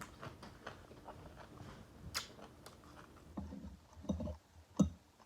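Close-miked chewing of food, with wet mouth smacks and clicks at an irregular pace and a few heavier chews in the second half.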